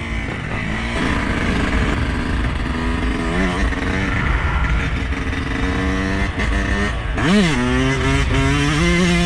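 Two-stroke single-cylinder engine of a 2021 Yamaha YZ125 dirt bike running under riding, its pitch rising and falling with the throttle, with one quick rev that climbs and drops about seven seconds in.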